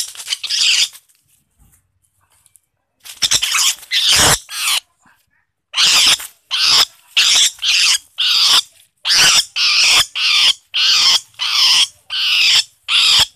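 An animal's loud, harsh calls. There are a couple at the start and a short cluster about three seconds in. From about six seconds in comes a run of about a dozen evenly spaced calls, roughly three every two seconds.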